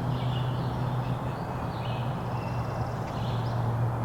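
Songbirds singing short repeated phrases about once a second over a steady low drone and a constant rushing background noise.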